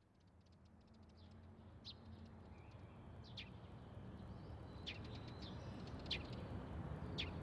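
Birds chirping in short, high calls about once a second, over a low, steady rumble; the whole sound fades in gradually.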